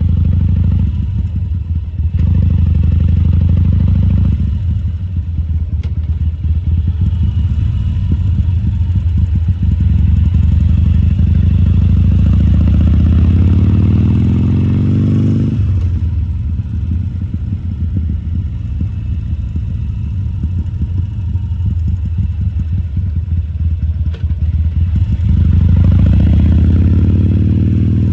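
Harley-Davidson Sportster XL1200C's air-cooled V-twin engine running, its revs climbing steadily for several seconds before dropping suddenly about halfway through, then climbing again near the end.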